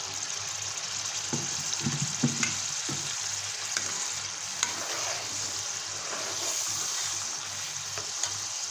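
Onion, ginger-garlic and tomato masala sizzling in hot oil in a karahi, stirred with a metal spoon. A few spoon knocks come in the first few seconds.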